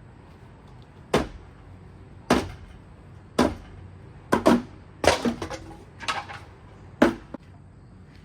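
A string of hard knocks and thuds, about eight of them, spaced irregularly about a second apart with a quick double hit in the middle. They come from objects striking a ceiling fan as it is smashed.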